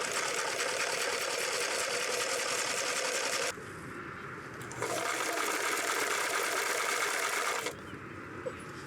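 Electric sewing machine stitching in two runs of a few seconds each. It stops about three and a half seconds in and starts again after a pause of about a second and a half.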